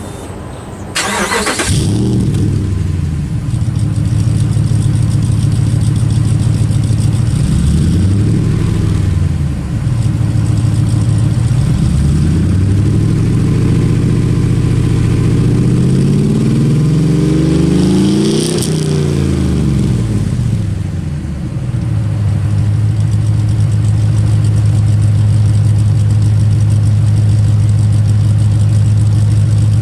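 Cold start of a 2005 Ram 2500's 5.7 Hemi V8 fitted with long-tube headers and a catted exhaust: a brief crank about a second in, then it catches and runs at a steady fast idle. In the middle it is revved up and down several times, then settles back to a steady idle.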